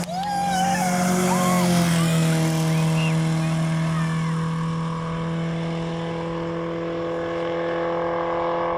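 Racing car engine held at steady revs, its note starting suddenly, dropping slightly about two seconds in and then holding steady.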